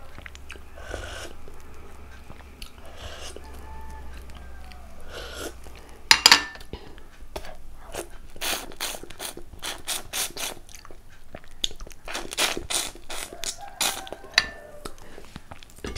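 Close-miked eating sounds: chewing and wet mouth clicks and smacks, sparse at first and coming several a second from about six seconds in, the loudest smack at about six seconds.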